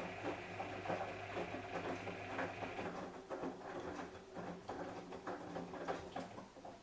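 Samsung Eco Bubble washing machine running a wash: irregular soft patter and clicking of water and laundry in the turning drum, over a steady hum that stops about three seconds in.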